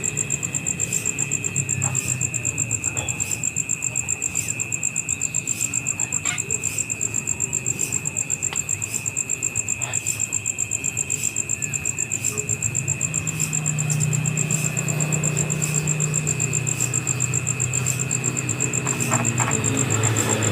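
Insects trilling steadily: a high, fast-pulsing buzz with a second, steadier tone beneath it, over a low hum.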